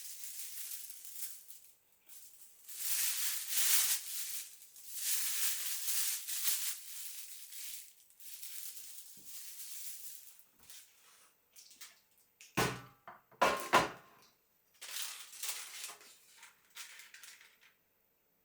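Crackling, crunching rustles in several long stretches, then a few sharp knocks with a brief ringing a little past the middle.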